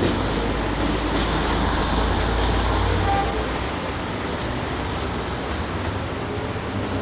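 A train passing or running with a low engine and wheel rumble over a steady wash of noise; the rumble drops away about three and a half seconds in.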